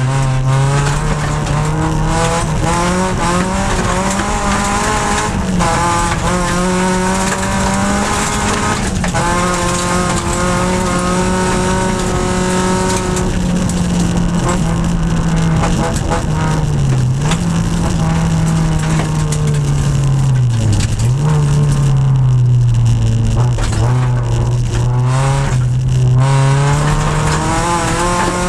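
EG6 Honda Civic rally car's engine heard from inside the cabin, driven hard at high revs on a rally sprint stage. The engine note holds high, then drops and climbs back several times in the second half as the driver shifts gear and brakes for bends.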